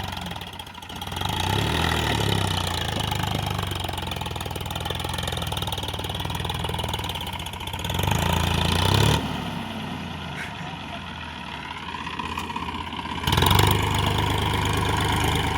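Massey Ferguson 7250 DI tractor's diesel engine working hard under a heavy trailer load. Its note swells about a second in and again around eight seconds, eases for a few seconds, then picks up again near the end.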